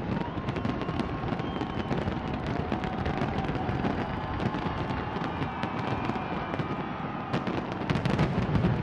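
Fireworks display going off: a continuous rapid crackle of bangs with thin whistling tones drifting over it, and a denser run of louder bangs near the end.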